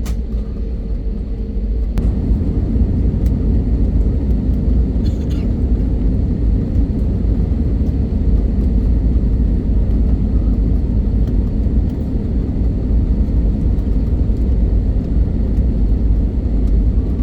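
Jet airliner heard from inside the cabin during takeoff: a loud, steady low rumble of engines and runway, growing louder about two seconds in.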